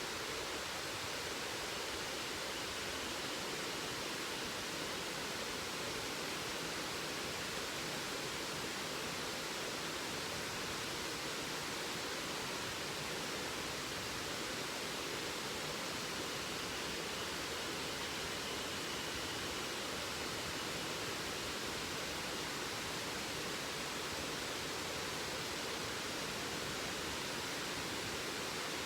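Steady rush of a waterfall, an even unbroken noise.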